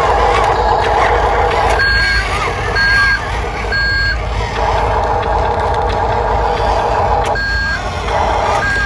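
Reversing beeps from a radio-controlled construction vehicle: three short beeps about a second apart, then more near the end. Under them is the steady whir of its electric motors and gears.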